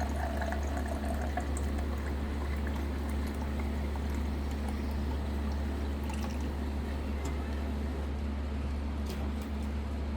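Water pouring from a water dispenser's tap into a cup, running steadily, over a steady low hum.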